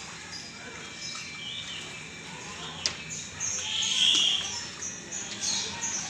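Birds chirping, with short high calls repeating through the second half and one louder call a little past the middle. A single sharp click comes just before it.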